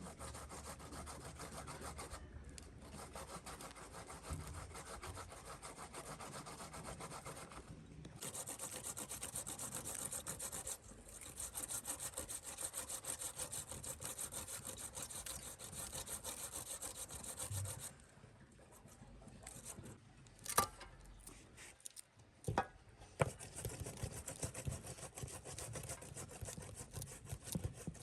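Rapid, continuous scraping or rubbing strokes on a hard surface, broken by a few short pauses, stopping about two-thirds of the way through. After that come a few scattered sharp knocks.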